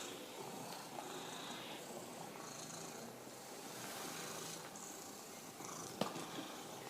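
Domestic cat purring steadily, with a single sharp click near the end.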